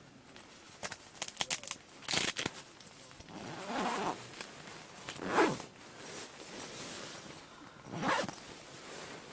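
Sleeping bag zipper being drawn several times in long strokes, with small clicks and rustling of the bag's nylon shell.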